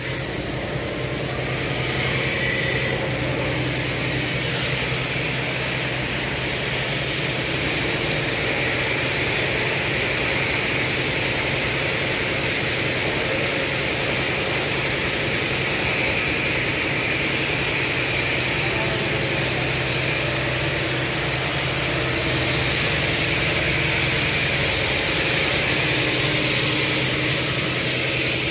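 Industrial hardening furnace running: a steady rushing roar with a low hum underneath, unchanging throughout.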